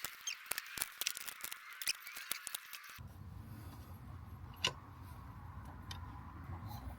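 Quick light clicks and ticks of hand work on parts, several a second for about three seconds, then a low steady background rumble with a single sharp click.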